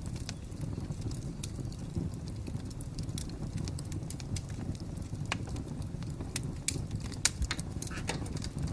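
Fire crackling, a steady low rumble of flame with irregular sharp pops, a few louder ones in the second half.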